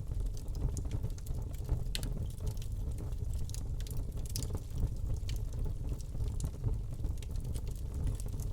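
Wood fire burning in a fireplace, crackling and popping at irregular moments over a steady low rumble of flames; the sharpest pops come about two seconds in and again past the middle.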